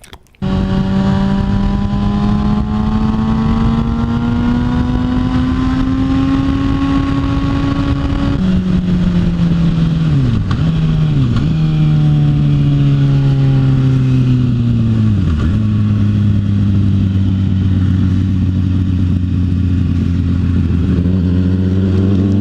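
Sport-bike inline-four engine (2012 Kawasaki Ninja ZX-6R) under way, with wind noise. Revs climb steadily for about eight seconds, drop at a gear change, dip twice and fall away, then settle to a steady lower cruise from about fifteen seconds in.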